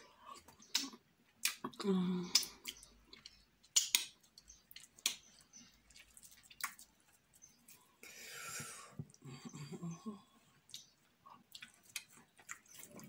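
Close-miked eating by hand: wet chewing and lip-smacking clicks of fufu with slimy ogbono and okra soup, with a longer hissing slurp about eight seconds in.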